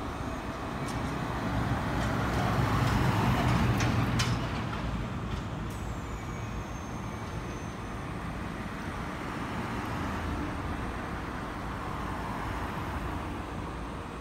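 Keikyu electric train running slowly along curved track, its rolling and motor noise swelling to its loudest two to four seconds in. There are a few sharp clicks, and a thin high squeal about six seconds in lasts about two seconds, falling slightly in pitch.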